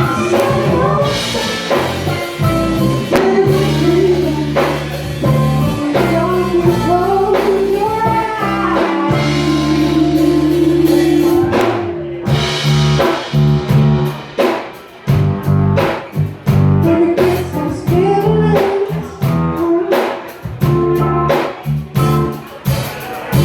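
Live band playing a rock song: a singer over electric guitar, bass and drum kit, loud and distorted. About halfway through, the band plays short stabs separated by brief gaps.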